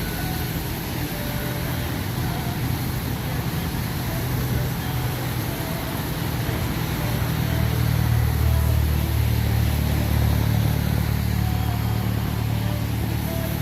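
Motor vehicle engine running with a steady low hum that grows louder about halfway through, over a steady hiss of rain.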